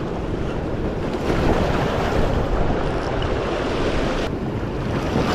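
Steady rushing noise of wind buffeting the microphone over moving water, a little louder from about a second in.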